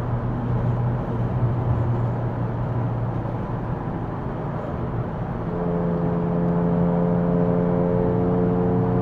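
Infiniti Q60 engine and tyre noise heard from inside the car while it cruises. The engine drone steps up in pitch and gets a little louder about five and a half seconds in, then holds steady.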